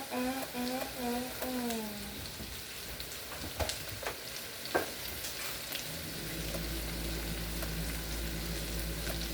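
Onions and bell peppers sizzling as they sauté in a pan and are stirred, with a few sharp utensil ticks. A voice hums a few notes in the first two seconds, and a steady low hum comes in about six seconds in.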